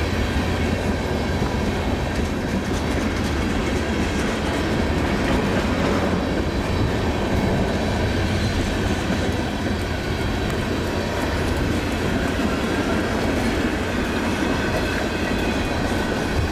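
Long Iowa Northern freight train of empty ethanol tank cars rolling steadily past, its wheels clattering over the rail joints in an unbroken rumble.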